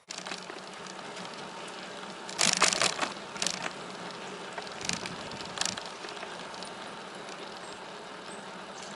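Bicycle riding along a trail: a steady rush of riding noise, with a few brief louder rattles or crunches between about two and six seconds in.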